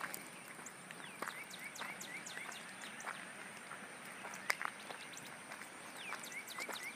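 Wild birds singing. One bird twice sings a phrase of a falling note followed by a quick run of about five short rising notes, with scattered high chirps from others.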